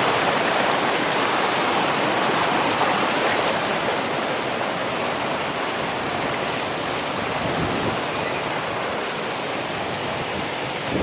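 Rushing water of a mountain stream and waterfall, a steady roar that eases slightly as it goes on.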